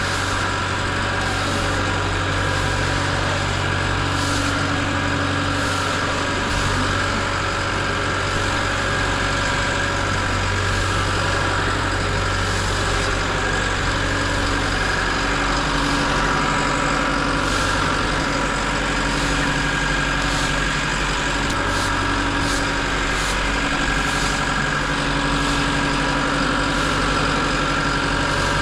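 Heavy diesel engine of a Cat wheel loader idling steadily, with a constant high hum over the engine note.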